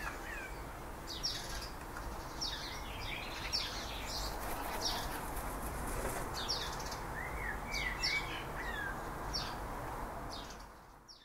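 Small birds chirping, a scatter of short quick chirps over a steady background hiss, all fading out near the end.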